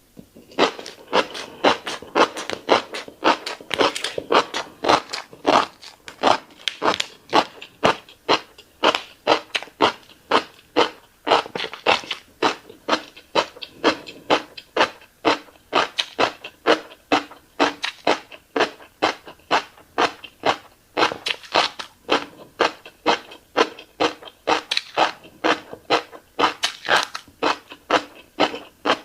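Close-miked chewing of fish roe: a steady run of wet mouth clicks and smacks, about two or three a second, as the eggs are bitten and popped.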